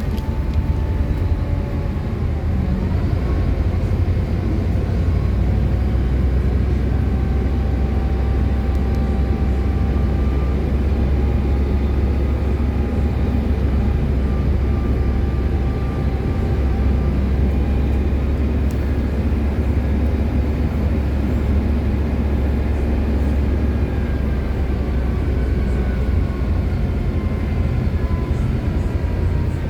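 City bus driving along: a steady low engine and road rumble, with a faint whine that slowly shifts in pitch as the speed changes.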